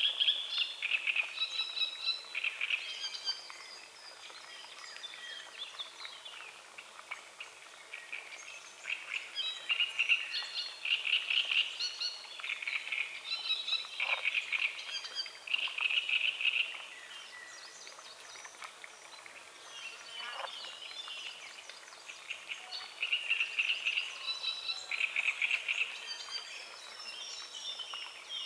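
Frogs croaking in repeated pulsed bursts of about a second each, with birds singing and chirping over them; the calling thins out for a few seconds twice.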